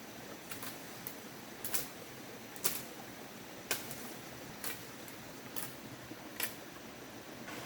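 Rice stalks being cut by hand with a sickle: a crisp snap about once a second, irregularly spaced, over a steady rustling background.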